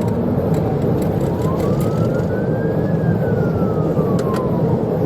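Police siren on wail, sliding slowly up for about two seconds and then back down, over loud, steady road and engine noise from a vehicle at high pursuit speed.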